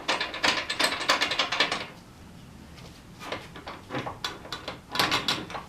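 Ratchet wrench clicking in quick runs while tightening the exhaust clamps that hold a motorcycle muffler: a fast stretch of clicks for about two seconds, then shorter, sparser runs.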